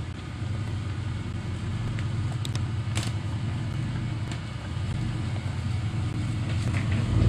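V8 engine of a Land Rover Series 2A 88-inch running steadily with a low rumble as the vehicle drives along an unsurfaced green lane. A few sharp knocks from the vehicle sound over it, the loudest about three seconds in, and it grows a little louder near the end.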